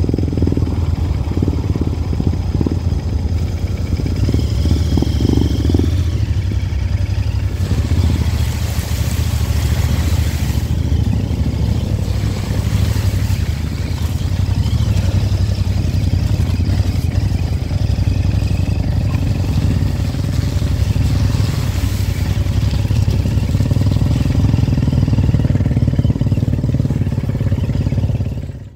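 Royal Enfield motorcycle engine running steadily while riding, with some rattling.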